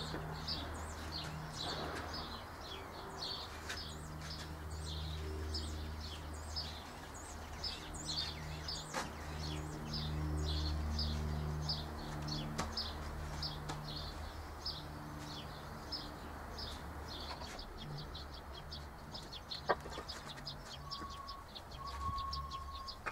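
A songbird chirping over and over in a quick, even series of short high notes, above a low hum that starts and stops. A couple of single knocks, about nine seconds in and again near the end.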